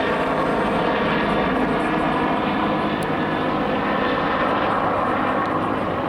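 Bell 412 and Bell UH-1 turbine helicopters flying past, a steady engine and rotor sound with many even tones that keeps a constant level.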